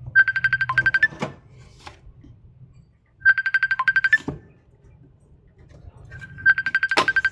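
A phone ringing: a rapid trilling ring tone in three bursts of about a second each, roughly three seconds apart, with a short knock after each burst.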